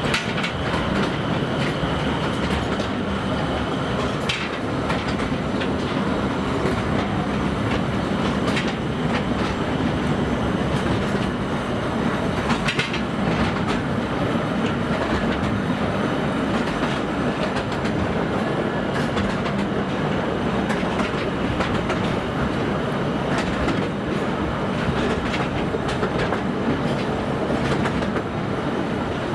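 Narrow-gauge forest railway train running steadily, heard from on board: a continuous rumble of wheels on track with a low engine hum, and a sharp click every few seconds as the wheels cross rail joints.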